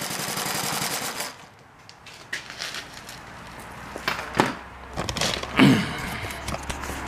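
Model flathead engine running with rapid, even firing beats, stopping abruptly about a second in. Then come scattered clicks and knocks, with one loud thump a little past halfway.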